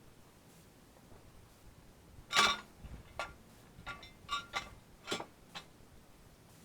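A string of sharp metallic clinks with a short ring, about eight in all: one loud clink about two seconds in, then lighter ones at uneven gaps over the next three seconds, as of metal tools or parts being handled.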